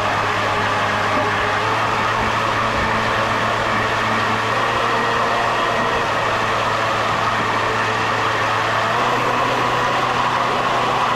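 A motor running steadily, a constant hum with no change in speed.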